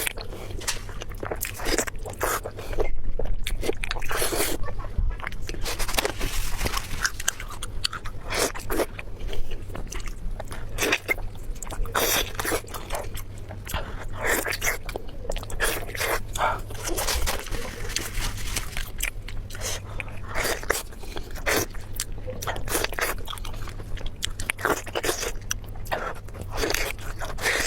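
Close-miked crunchy bites and chewing of food, with irregular crackling crunches throughout.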